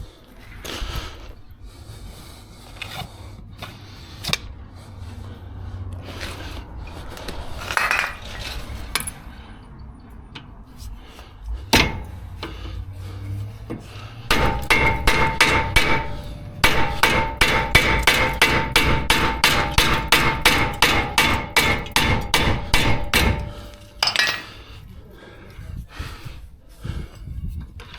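A hammer striking metal in a fast run of blows, about three or four a second for some nine seconds, each with a metallic ring. This comes during a brake job on a caliper with a seized slide pin.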